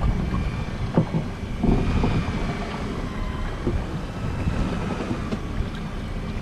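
Wind buffeting the microphone on a motorboat under way, over the boat's steady engine hum, with a couple of short knocks about one and two seconds in.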